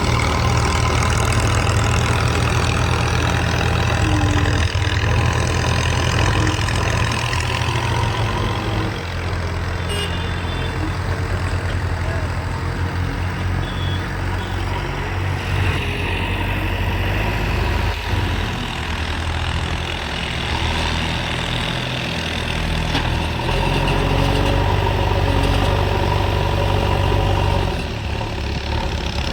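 JCB 3DX backhoe loader's diesel engine running steadily. It eases off for a stretch in the middle and then picks up again near the end.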